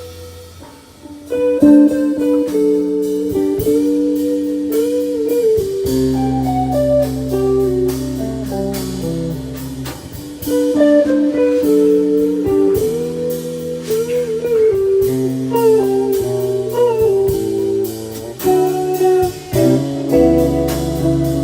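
Jazz-blues piece: an electric guitar plays a single-note melody with bent and sliding notes over a bass line and drums, coming in strongly about a second in.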